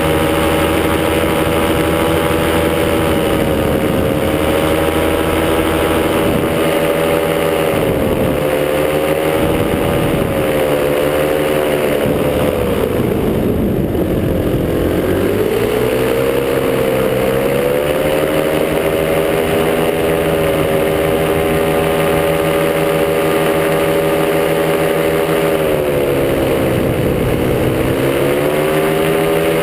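Top80 single-cylinder two-stroke paramotor engine and propeller running steadily in flight. The throttle eases off about halfway through, dropping the pitch, then opens again, with another brief dip and rise near the end.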